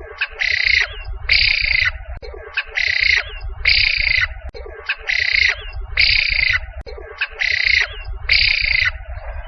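A bird calling a series of harsh calls in four pairs, each call about half a second long, over a low steady rumble.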